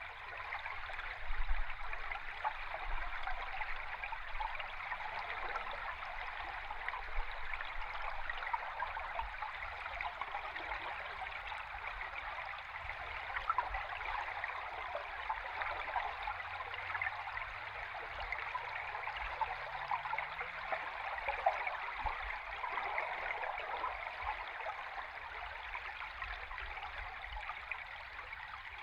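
River water flowing, recorded underwater: a steady dense rush of fine bubbling and crackling.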